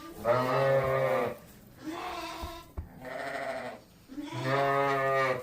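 Penned livestock bleating four times: two loud, long calls at the start and near the end, with two softer, shorter ones between, each with a quavering pitch.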